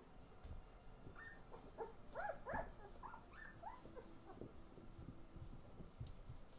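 Puppies whimpering and yipping in a quick flurry of short, high, wavering calls, thickest from about one to four and a half seconds in.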